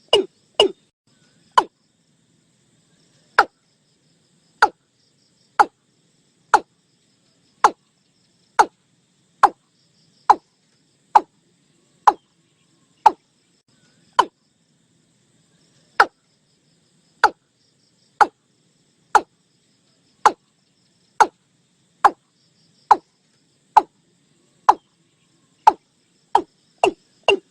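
Watercock calling: a series of short, sharp single notes. A quick run at the start slows to about one note a second, then quickens again near the end.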